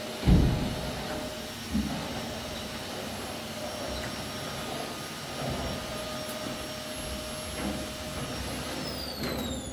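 Vacuum cleaner motor running with a steady whine and a few knocks. Near the end the whine falls in pitch as the motor winds down.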